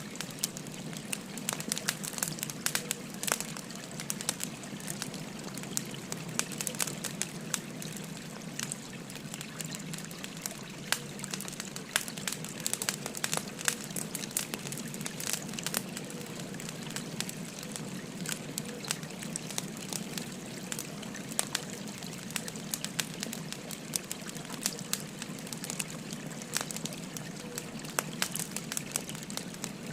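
Burning firewood crackling with frequent sharp pops over the steady trickle of a gently flowing stream.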